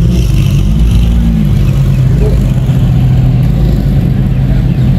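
Lamborghini Huracán's V10 idling close by, low and steady, with one quick rev that rises and falls about a second in.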